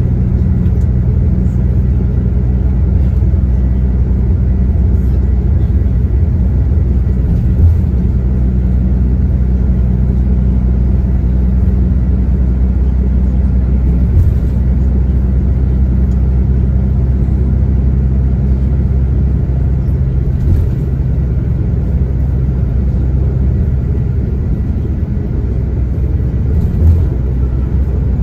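Coach's diesel engine running steadily at cruise, heard from inside the cabin as a low drone. A few light thumps come through at fairly even intervals, about every six seconds.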